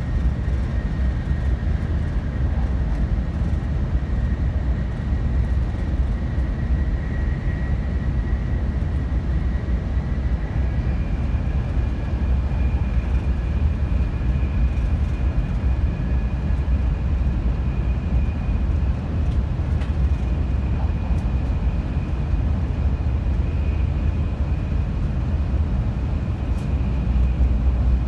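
Kyushu Shinkansen 800 series train running, heard inside the passenger cabin: a steady deep rumble with a faint high tone that steps up in pitch about a third of the way through.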